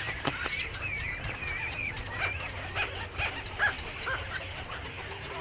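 A flock of small birds chirping and chattering, with overlapping warbling calls and short sharp chirps; one chirp about three and a half seconds in is louder than the rest.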